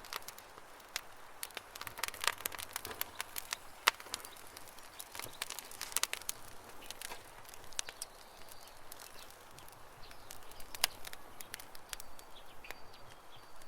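Campfire crackling: irregular sharp snaps and pops over a soft hiss, with faint bird chirps near the end.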